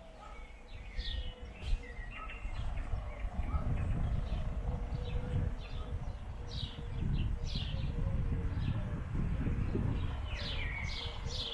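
Small birds chirping repeatedly, in short falling notes, over a low irregular rumble that grows stronger about three seconds in.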